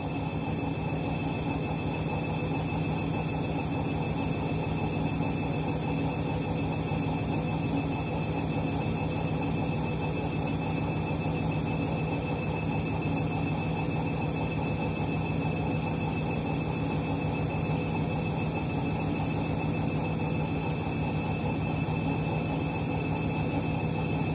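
Candy washing machine's drum in an intermediate spin: a steady mechanical rumble with a constant hum, a bit noisy, which the owner takes for the drum bearings going.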